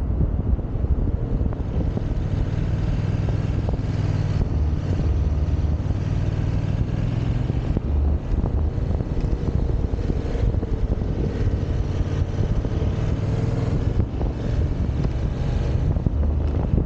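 Yamaha XSR700's 689 cc parallel-twin engine running under way at a fairly steady pace, with wind rushing over the microphone.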